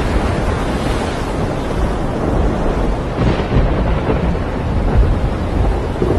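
Storm audio: strong wind buffeting the microphone over heavy rain, a continuous loud, low rumble with no break.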